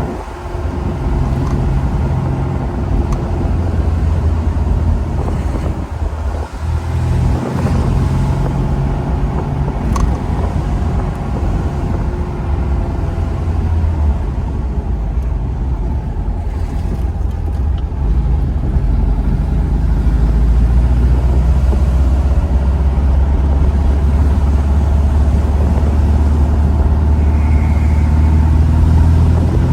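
1972 Porsche 914's air-cooled engine running as the car drives, heard from inside the cabin. It eases off briefly about six seconds in, then pulls steadily and a little louder in the second half.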